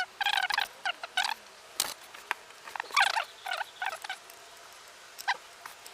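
Plastic bottle of Castrol Edge 5W-20 engine oil glugging in quick bubbly bursts as new oil is poured into an oil filter, with a sharp click about two seconds in.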